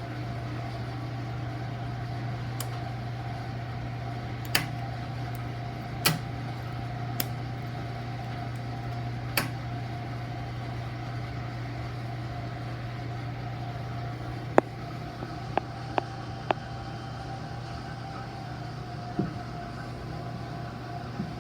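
Steady low electric hum of a running motor, with about nine sharp metallic clicks and taps scattered through it.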